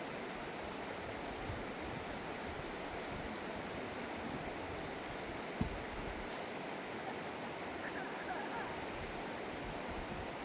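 Steady rushing of a fast mountain river, with a single thump about five and a half seconds in.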